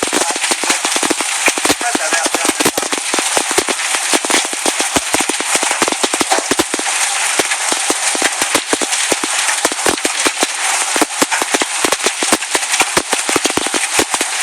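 Hailstones pelting down hard, striking in dense, irregular sharp cracks over a steady hiss of heavy rain.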